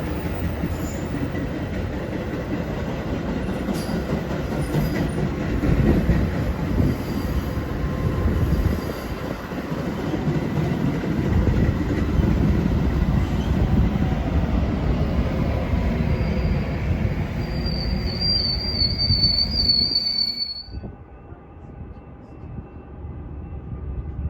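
A train passing close by, its wheels rumbling and clattering along the rails. Near the end a high wheel squeal rises for a few seconds, then the sound cuts off abruptly to a much quieter background.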